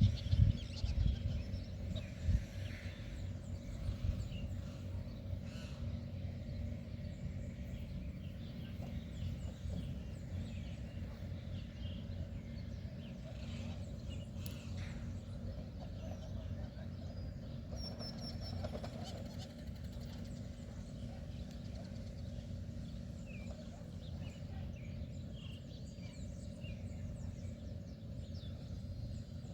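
Outdoor ambience: scattered bird calls over a steady low rumble, with a few bumps on the microphone in the first couple of seconds.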